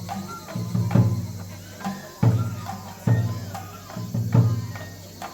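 Festival taiko drumming accompanying a lion dance: deep, ringing drum beats about once a second, with lighter clicking taps in between.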